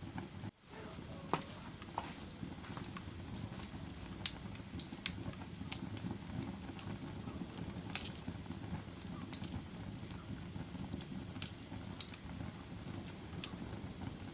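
A fire burning: a steady low rumble with scattered sharp crackles and pops, some a few seconds apart. The sound drops out briefly about half a second in.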